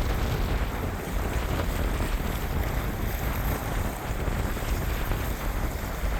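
Strong wind buffeting the microphone: a steady, gusting low rumble with a rushing hiss over it.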